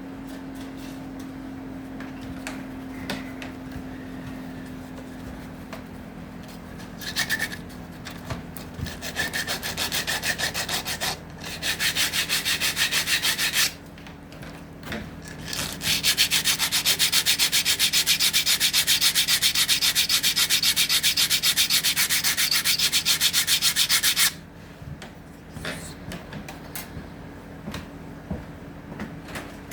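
Hand sanding of acacia wood: quick, even back-and-forth rubbing strokes, about five a second. They come in three runs starting about seven seconds in, the longest lasting about eight seconds, with light handling knocks before and after.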